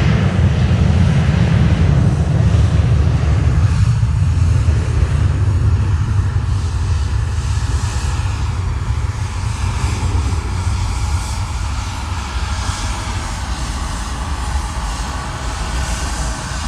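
Airliner engines running with a heavy low rumble that slowly fades.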